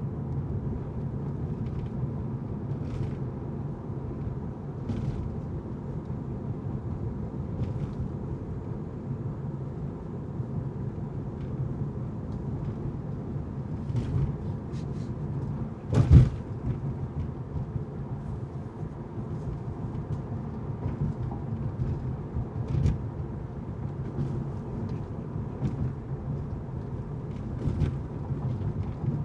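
A car driving on city streets: a steady low road and engine rumble with scattered short knocks, and one loud thump about sixteen seconds in.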